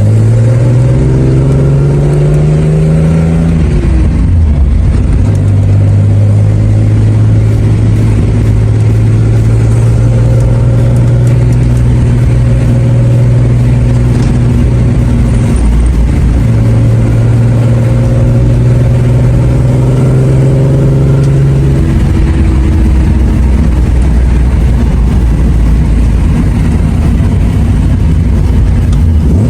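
Nissan Skyline 'Kenmeri' car engine running loud and steady as the car drives. The engine note steps down in pitch about four seconds in and changes again around twenty-two seconds.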